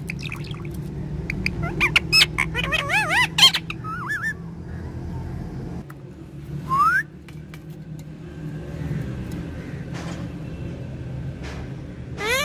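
Talking parrot chattering and whistling in fast wavering warbles for the first few seconds, then a single rising whistle about seven seconds in and another near the end, over a steady low hum.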